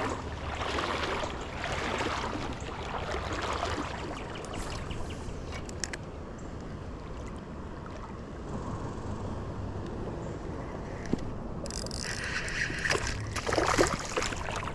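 River water sloshing and swirling around a wader's legs, over a steady low rumble of current and wind, with a louder splash about twelve seconds in.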